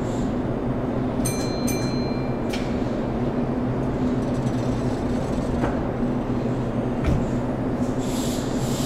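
Keihan electric train running: a steady rumble with a low, even motor hum. A brief high-pitched ringing squeal comes a little over a second in.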